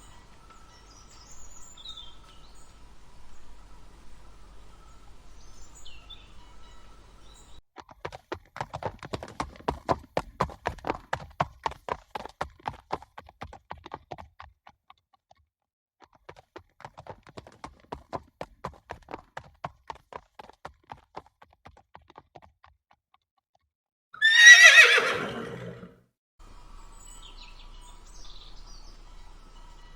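Horse hooves in two long runs of rapid hoofbeats, as at a gallop, then one loud horse whinny that falls in pitch near the end.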